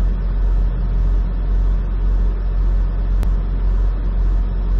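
Semi truck's diesel engine idling, heard from inside the cab: a steady low rumble with a soft pulse about twice a second. A single sharp click about three seconds in.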